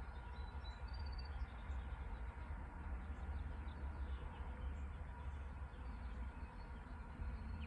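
Faint background noise: a steady low rumble with a few brief, faint high chirps about a second in.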